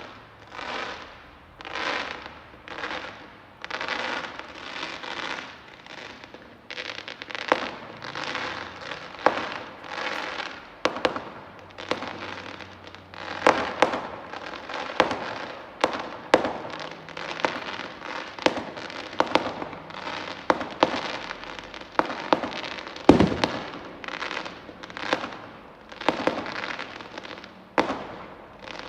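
Fireworks going off continuously: a rapid run of bursts with crackling, punctuated by sharp bangs, the heaviest bang about 23 seconds in.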